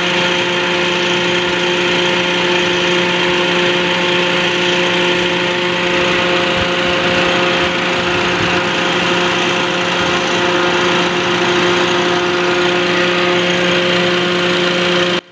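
Car engine idling with the air-conditioning compressor and fan running, a steady hum that cuts off suddenly near the end. The compressor is one the mechanic judges weak: the gauge needles jump and the cabin does not cool.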